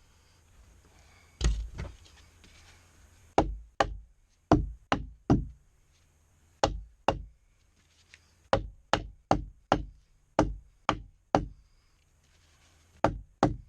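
Hammer blows knocking a shim in under a jacked-up floor: about twenty sharp strikes, in short runs of two to four with brief pauses between.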